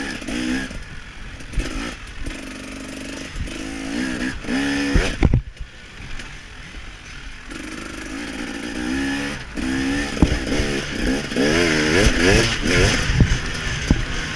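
KTM 300 XC-W two-stroke dirt bike engine ridden hard, revving up and dropping back over and over, with the throttle chopped about five seconds in and a wavering rev near the end. Knocks and clatter of the bike over rough ground come through now and then.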